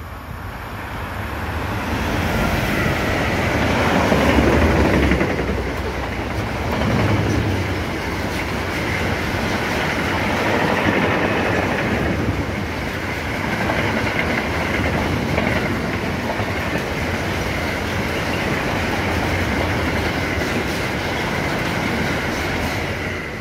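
A train passing through a station without stopping. The sound builds to its loudest about four to five seconds in as the front passes, then holds steady for a long run of cars rolling by with a faint high whine, and falls away sharply near the end.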